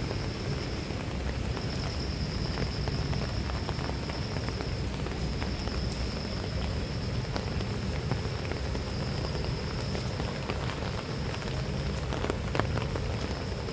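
Steady rain falling on palm fronds, wet ground and puddles, with many small drop ticks through it. A steady high whine runs underneath and drops out briefly twice in the first few seconds.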